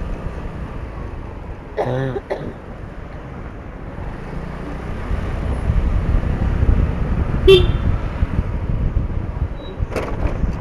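Motorcycle riding in city traffic: a low engine and road rumble that grows louder about halfway through. A short vehicle horn toot sounds about two seconds in, and a brief higher beep comes near the end.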